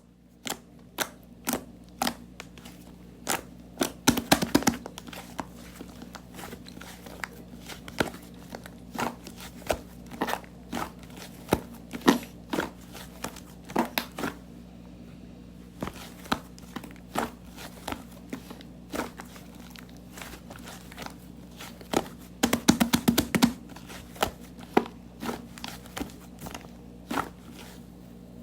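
Slime being handled, giving a string of sharp clicks and crackling air-bubble pops, with two quick runs of pops, about four seconds in and again near the end. A steady low hum runs underneath.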